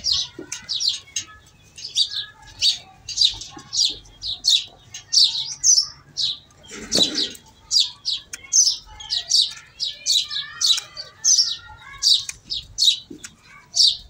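Small birds chirping continuously: short, high chirps repeated about three times a second. There is a brief lower sound about seven seconds in.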